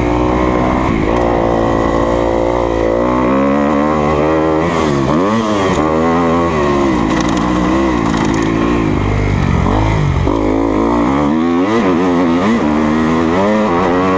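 2020 Kawasaki KX250F's single-cylinder four-stroke engine under riding load, its pitch revving up and dropping back again and again as the throttle is worked through a section of motocross track.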